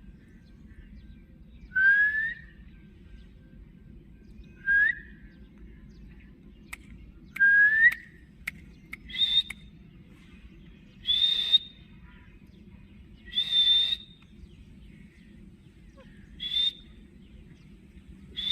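Green ringneck parrot giving a series of short whistled calls, one every two to three seconds: the first few are rising whistles, and the later ones are higher-pitched and harsher.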